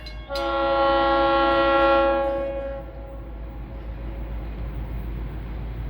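Locomotive air horn of a Florida East Coast Railway local freight sounding one long chord-like blast of about two and a half seconds at a grade crossing. A steady rushing rumble of the train follows after the horn stops.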